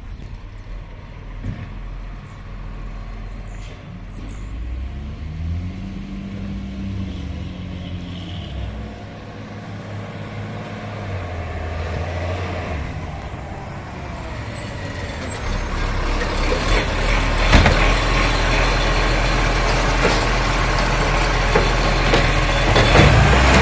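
Garbage truck engine running, with rising and falling pitch in the first half, then growing steadily louder over the second half as the truck draws closer.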